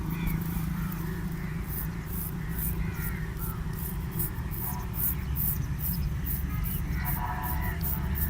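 Razor scraping over chest skin and hair in quick, short strokes, about two or three a second, over a steady low rumble.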